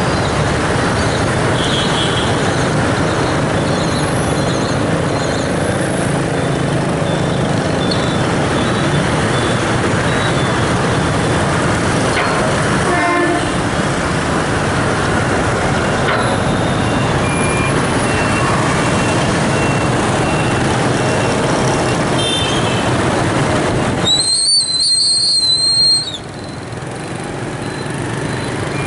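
Loud, steady vehicle noise. Near the end a high, thin whistle-like tone sounds for about two seconds, and then the noise drops off.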